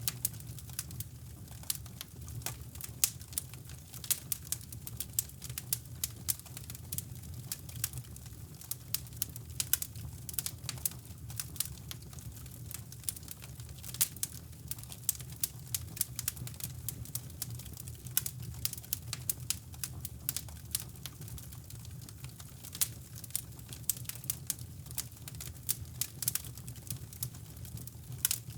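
Wood fire crackling in a fireplace, with many irregular sharp pops and snaps, over a steady low rumble of brown noise.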